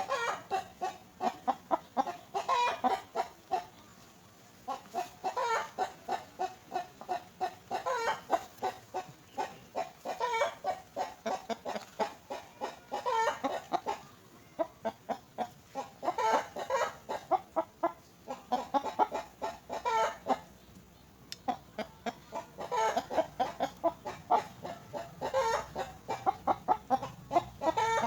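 Young myna birds' begging calls: rapid strings of short, harsh chirps, several a second, coming in bouts with brief pauses between.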